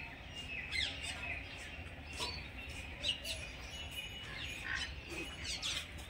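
Small birds chirping: many short, quick chirps that sweep downward in pitch, scattered irregularly over a steady low background noise.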